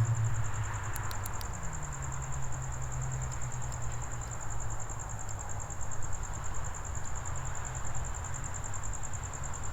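Crickets chirring in one steady high trill, over a low steady hum of traffic.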